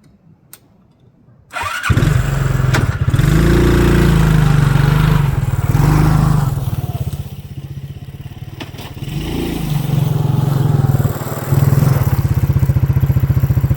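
A small vehicle engine starts about a second and a half in, then runs with a steady low pulsing note that rises and falls in level as it is driven.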